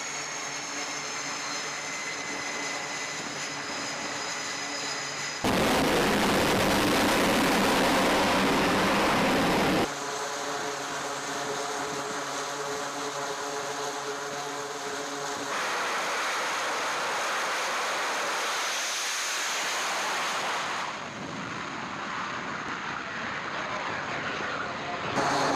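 Jet aircraft engines in a run of short edited clips: a steady high whine over a lower hum, broken by a much louder rushing blast lasting about four seconds, starting some five seconds in.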